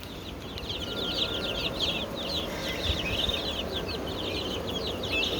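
Chickens calling in a flock: many quick, high, downward chirps overlapping one another without pause, over a steady hiss of rain.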